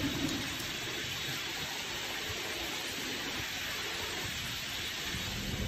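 Heavy rain pouring down in a steady, dense hiss, with the last of a low rumble of thunder dying away at the very start.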